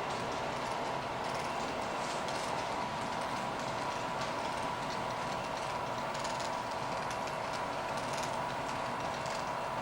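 Coal train rolling past: a steady rumble of wheels on rail, with faint irregular clicks over a faint steady tone.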